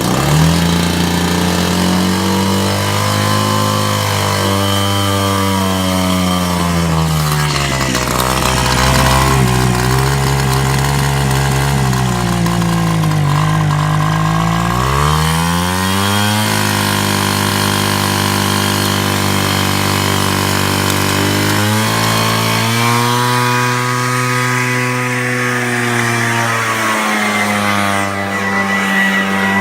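Echo two-stroke backpack blower engine running hard, its pitch rising and falling again and again as the throttle is worked.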